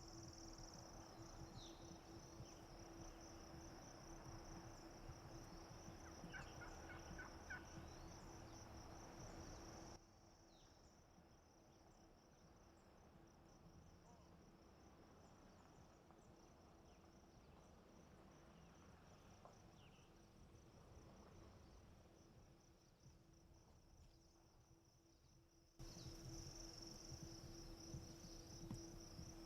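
Faint wild turkey calling: a short series of notes about six seconds in, over a steady high insect buzz. The background drops much quieter in the middle for about sixteen seconds.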